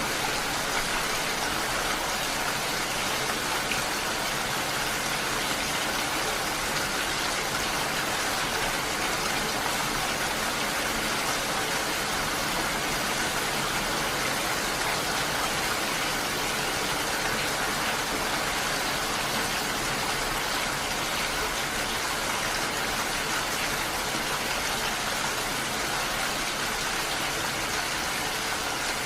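Steady rainfall, an even hiss of rain with no separate drips or thunder standing out.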